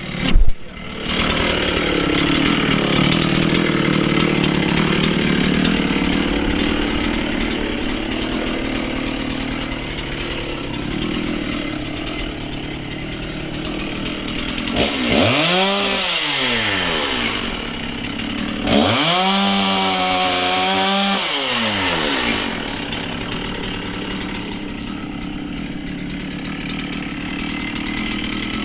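Chainsaw running steadily as it cuts into a tree, with two throttle revs about halfway through, each rising and then falling in pitch.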